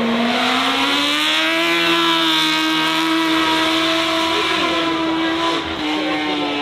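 Racing car engine at full throttle: its pitch rises over the first two seconds as it accelerates, then holds high and steady, dipping slightly near the end.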